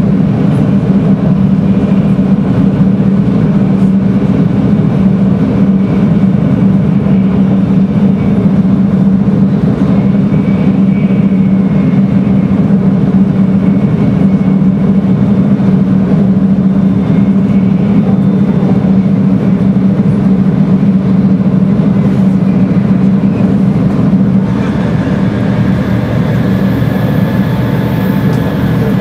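Series 300 Shinkansen heard from inside a motor car at speed: a steady, loud running rumble from wheels, track and motors. About 24 seconds in, a set of steady whining tones from the traction inverter and motors joins the rumble.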